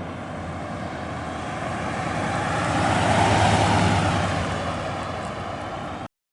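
Engine noise passing by, swelling to its loudest about three seconds in and fading again, then cut off suddenly about six seconds in.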